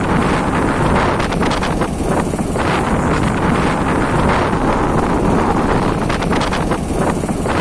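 Wind buffeting the microphone on a moving motorbike, mixed with steady engine and road noise.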